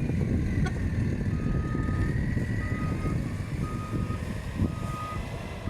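Vehicle reversing alarm beeping, one steady high beep about every second, four beeps starting about a second in, over rough wind noise on the microphone.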